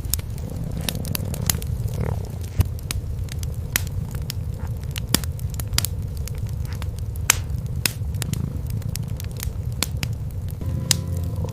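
Cats purring as a steady low rumble, under a wood fire crackling in a fireplace with sharp pops at irregular intervals.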